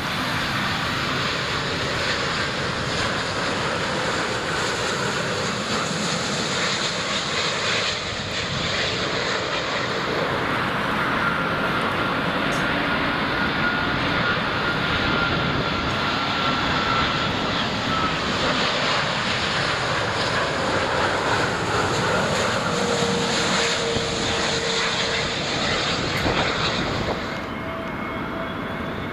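Jet airliner passing close by, with steady engine noise carrying a faint whine. The sound thins out and drops a little about two seconds before the end.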